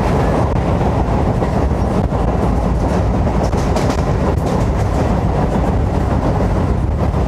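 An EMU local train running between stations, heard from on board: a loud, steady rumble of the coach and its wheels on the track, with a few faint rail clicks about halfway through.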